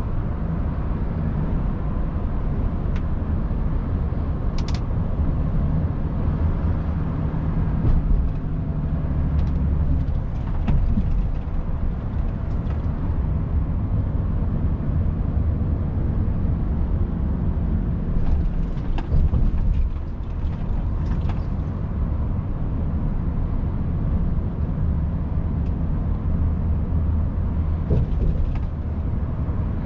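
Volvo FH 500 truck's 13-litre six-cylinder diesel running at road speed: a steady low drone mixed with road and tyre noise, heard from the cab. Brief clicks and creaks come and go.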